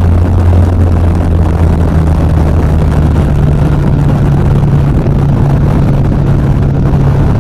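Yamaha XV950R's air-cooled V-twin engine running under load at highway speed, its pitch stepping up about a second in and then holding steady as the bike accelerates to overtake. Heavy wind rush on the helmet microphone runs underneath.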